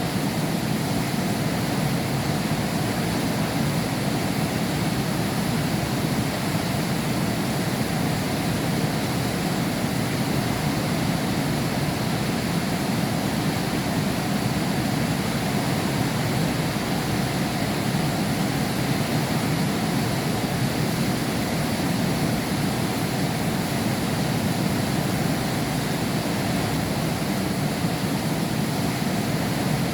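Heavy rain falling steadily, heard against window glass, an even unbroken hiss and patter.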